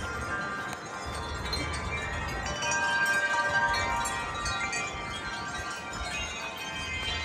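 Wind chimes ringing in gusty wind, many overlapping tones, swelling loudest about three seconds in. A low wind rumble on the microphone comes and goes underneath.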